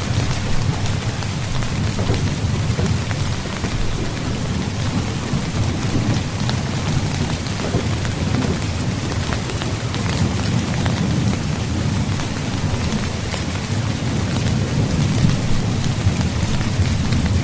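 Steady rain drumming on a tent's fabric, many fine drop ticks, over a continuous low rumble of thunder.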